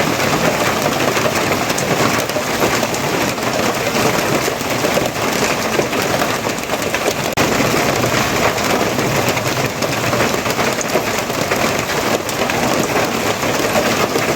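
Steady, heavy rain falling on surfaces, a dense even hiss with no distinct drops or thunderclaps standing out.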